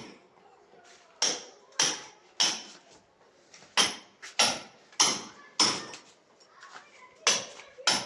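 Hand rammer (durmus) pounding a brick floor to compact it: about a dozen sharp strikes roughly half a second apart, in short runs with brief pauses.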